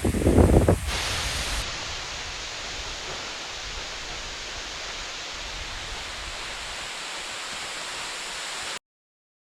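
Waterfall rushing as a steady hiss, after a brief low buffeting on the microphone in the first second; the sound cuts off abruptly to silence near the end.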